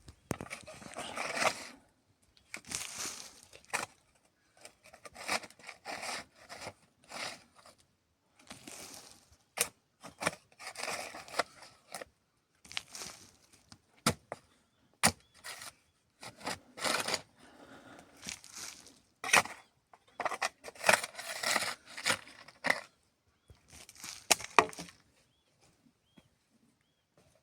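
Irregular handling noises: bursts of rustling and scraping with sharp cracks and clicks among them, stopping about three seconds before the end.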